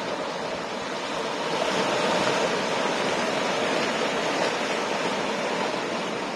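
Ocean waves breaking on the shore, a rush of surf that swells about two seconds in and then slowly eases off.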